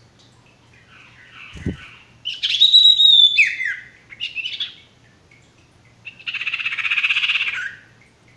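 Sirtu bird calling: a burst of loud, sweeping whistled notes that fall in pitch, a few short notes, then a harsh, rapidly pulsed rasping chatter of about a second and a half. A low thump sounds near the start of the calls.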